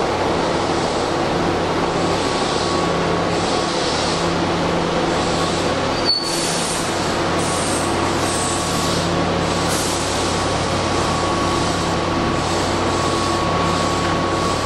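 A Keihan 2200-series electric commuter train pulls into an underground station platform and brakes to a stop. About six seconds in there is a sharp click, followed by several short hisses of air. The train then stands with a steady hum.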